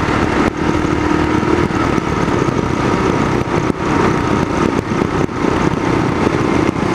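Kawasaki KLR650's single-cylinder engine running steadily under way.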